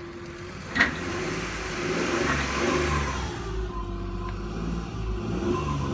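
2006 Ford Explorer engine, running with its drive belt cut, revved up briefly and let back down; it revs up smoothly. A sharp click just under a second in.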